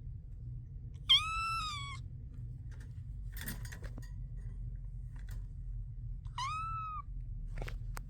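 Chinchilla silver kitten meowing twice: a high meow of just under a second about a second in, and a shorter one about five seconds later. A few soft rustles and clicks fall between them.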